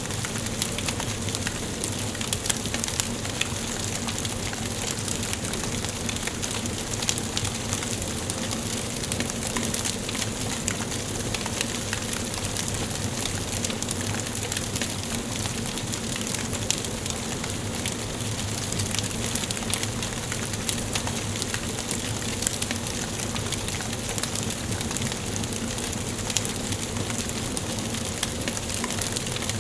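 Wood fire burning in a fireplace: a steady hiss with frequent small crackles and pops scattered irregularly throughout.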